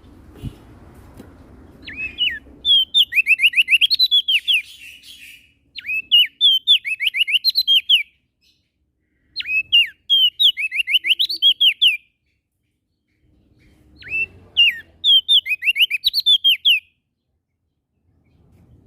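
Prenjak daun songbird singing four loud phrases, each a quick run of high, downward-sliding notes, with short pauses between them.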